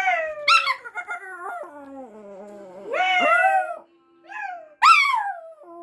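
A dog howling: long, slowly falling howls broken by louder, higher yelping cries about half a second, three seconds and five seconds in.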